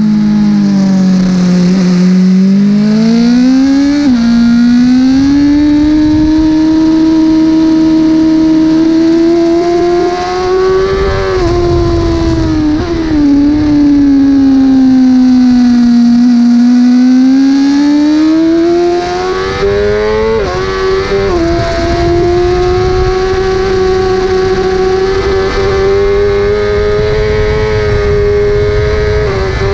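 A 1000 cc superbike engine running hard on track: its pitch falls early on, climbs slowly, drops again around the middle and rises steadily toward the end. Quick gear changes break in about 4 s in, around 12 seconds in and around 20 seconds in. Wind rushes underneath.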